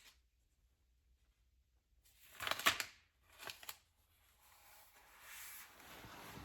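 Paper rustling as a book page is turned: two short crisp rustles a couple of seconds in, the first the louder, then a softer continuous brushing of paper.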